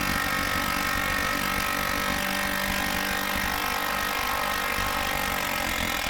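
Cordless impact gun hammering continuously as it drives a prevailing-torque lock nut onto a shock top-mount stud, labouring against the nut's locking section.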